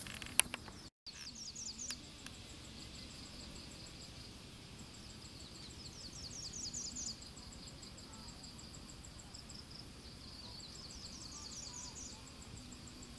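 Countryside wildlife calls: a steady, evenly pulsed high trill with three runs of quick, high-pitched chirps.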